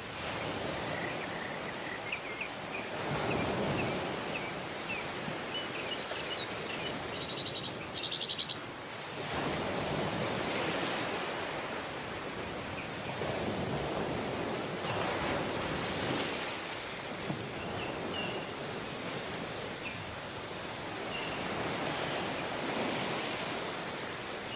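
Waves washing onto a beach, each swell rising and falling about every six seconds. Short high chirps from small birds come through over the surf in the first third, including a quick trill about eight seconds in.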